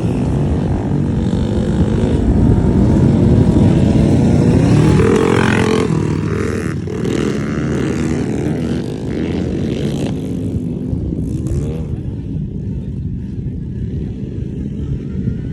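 Mini motocross bike's small engine running and revving, its pitch rising and falling, loudest a few seconds in and then easing back.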